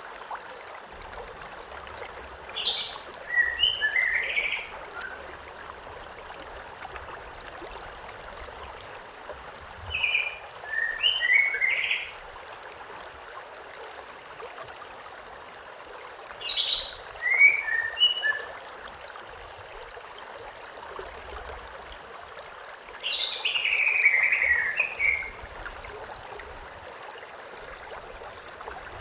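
A songbird singing short, quick phrases of chirped notes, four times at intervals of about six to seven seconds, over the steady rush of a river.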